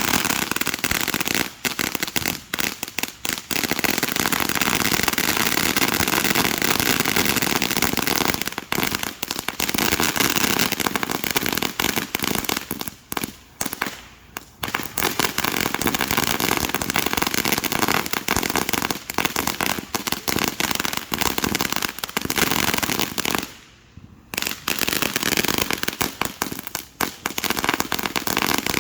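Fireworks going off in a rapid, nearly continuous barrage of pops and bangs, with two brief lulls, one near the middle and one about five seconds before the end.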